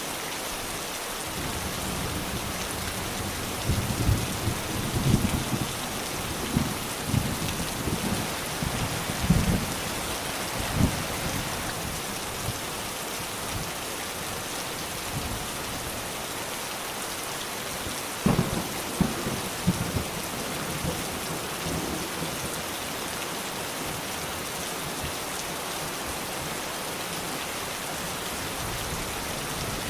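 Steady rain hissing, with rolling thunder rumbling low in two spells, one a few seconds in and another just past the middle, and a third building near the end.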